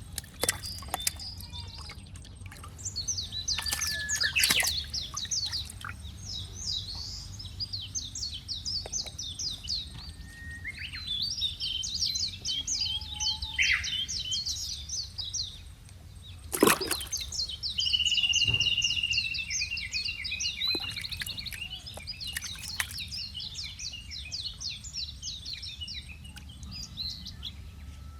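Birds chirping in long, rapid series of high notes, with one held whistled note about two-thirds of the way through, over a steady low hum. Two sharp knocks, one a few seconds in and a louder one just past the middle.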